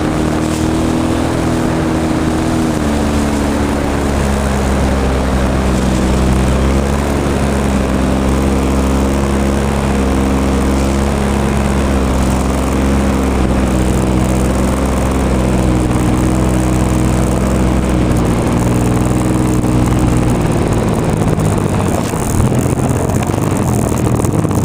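26cc two-stroke gas engine of an RC airplane running steadily at high throttle, heard close up with wind rush over it. Its pitch steps slightly lower about three seconds in, and the steady tone breaks up near the end.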